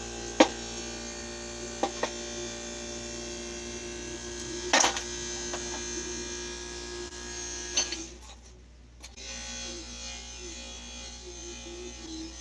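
A small motor buzzing steadily, with several sharp clicks and a heavier knock in the middle; the buzz drops lower about two thirds of the way through.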